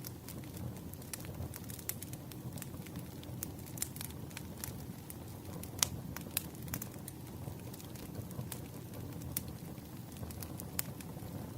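Firewood burning, crackling steadily with irregular sharp pops over a low rumble; the loudest pop comes about six seconds in.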